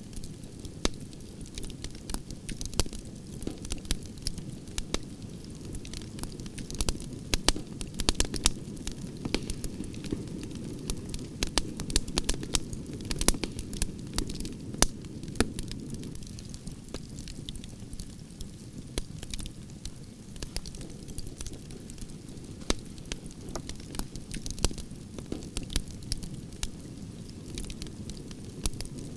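Fire burning in a fireplace: a steady low rumble with frequent irregular crackles and sharp pops.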